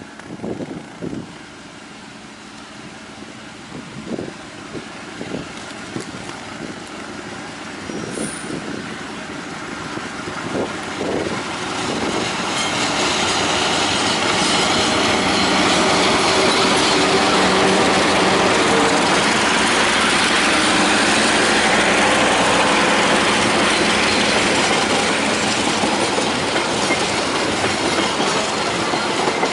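Passenger train hauled by CC 201 diesel-electric locomotives passing at speed. A quieter stretch with scattered low knocks gives way, about twelve seconds in, to the loud, steady rolling noise of steel wheels on the rails as the locomotives and coaches go by.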